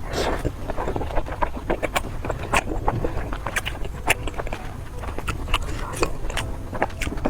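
Person biting and chewing food, with many sharp, irregular crunches and smacks.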